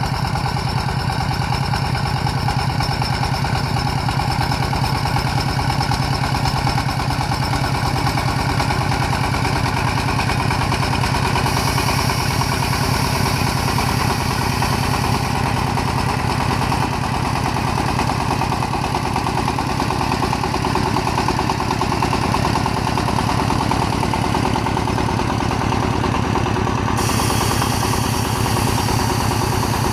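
A công nông farm truck's single-cylinder diesel engine running steadily with an even, rapid chugging beat.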